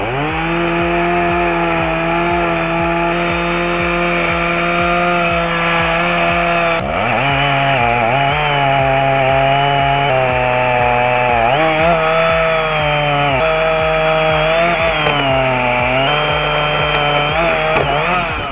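Chainsaw running at high revs as it cuts wood. Its pitch holds steady for the first seven seconds or so, then dips and recovers several times as the saw is loaded in the cut.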